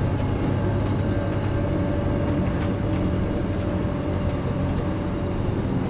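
Scania K410IB coach's engine running with road noise, heard from inside the passenger cabin as a steady low rumble with a faint whine.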